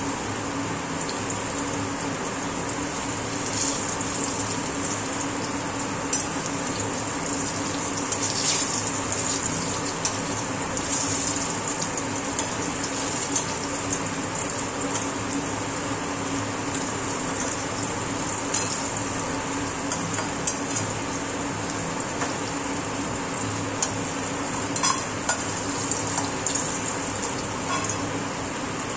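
Brinjal slices sizzling steadily as they shallow-fry in oil in a metal kadai, with occasional sharp clicks and scrapes of a metal turner and tongs against the pan.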